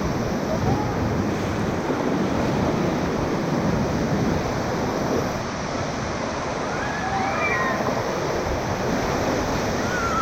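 Steady rushing of river whitewater at high water, with wind on the microphone; faint voices about seven seconds in.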